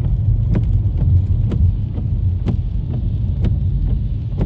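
Car driving: a steady low rumble of engine and road noise inside the cabin, with sharp ticks about once a second.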